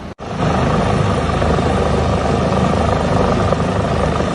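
Rescue helicopter flying close by: steady loud rotor beat and turbine noise, starting abruptly just after the start.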